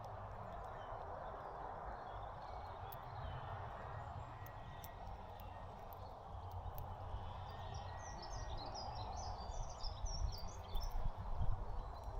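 Small birds at a seed feeder chirping in a quick flurry of short, high calls about eight to eleven seconds in, over a steady outdoor background hum. Faint scattered clicks run through it.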